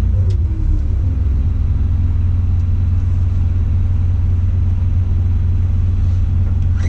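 Tadano ATF 180G-5 crane's diesel engine running steadily, heard from inside the operator's cab. Its revs drop during the first second as the operator eases off a control, then hold steady.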